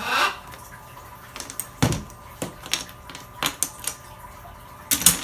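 Plastic Lego bricks clicking and clattering as they are handled and pressed together, a string of separate sharp clicks with a loud double click near the end. A short rising squeak comes at the very start.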